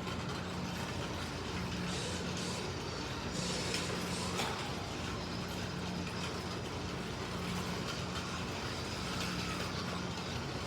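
Slot cars (MR Slotcar Cunningham Corvettes and a Scalextric Mercedes 300 SLR) running laps on a track: small electric motors whining and pickup braids and tyres hissing on the rails, with a hum that swells and fades as the cars pass.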